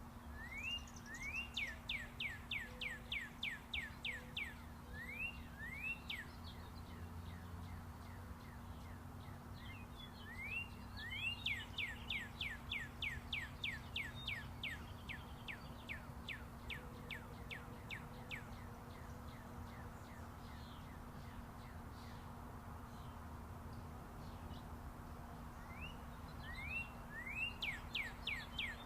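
A songbird singing three bouts of song, each opening with a few rising notes and running into a fast series of falling notes, about three or four a second. Under it runs a steady low rumble of distant interstate highway traffic.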